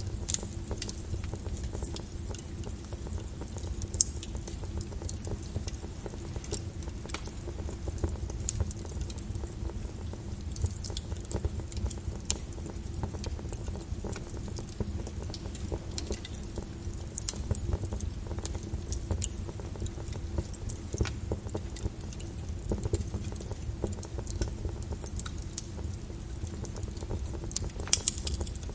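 Fireplace fire crackling: irregular sharp snaps and pops over a steady low rumble, with a louder pop about four seconds in and a pair of louder pops near the end.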